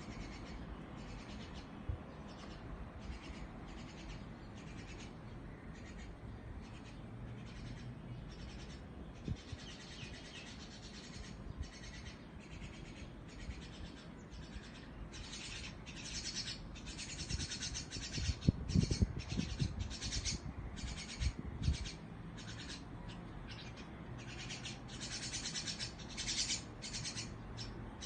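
Small birds chirping, with many short, quick calls repeating throughout and growing denser and louder in the second half. A few loud, low thumps or rumbles come around the middle.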